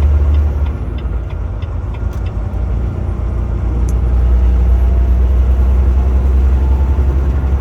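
Semi truck driving on the highway, heard from inside the cab: a steady low engine drone with road and tyre noise.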